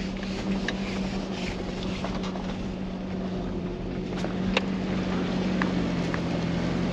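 A motor running steadily at one pitch, with wind noise on the microphone and a few light clicks.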